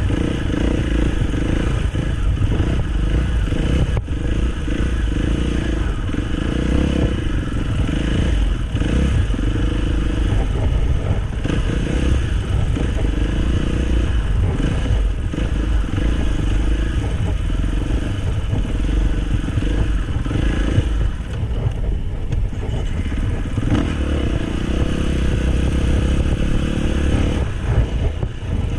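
Dirt bike engine running on a trail ride, its pitch rising and falling repeatedly as the rider works the throttle, with clattering and rumble from the rough ground.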